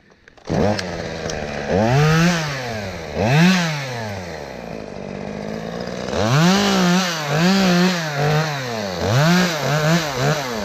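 Two-stroke chainsaw coming in about half a second in and revved up and down about five times as it cuts through a willow limb, its pitch rising and falling with each throttle squeeze.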